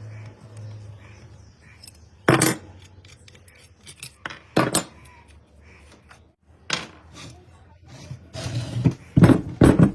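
Metal clinks and knocks, as of tools and metal pump parts being handled and set down during a repair. There are sharp strikes about two seconds in and again near the middle, and a quick cluster of them near the end.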